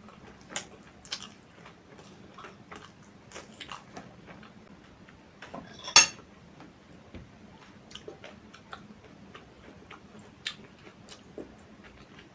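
Close-miked eating sounds: scattered small clicks and smacks of chewing and biting, with one sharp knock about halfway through, the loudest sound.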